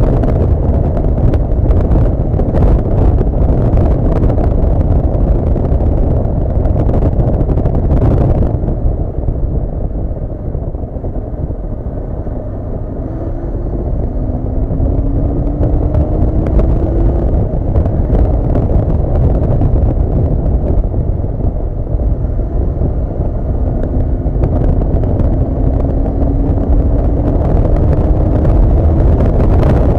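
Riding noise from a Honda CB400 Super Bol d'Or: loud wind buffeting over the microphone with the inline-four engine beneath. The noise eases off about a third of the way in, then the engine note rises twice as the bike accelerates.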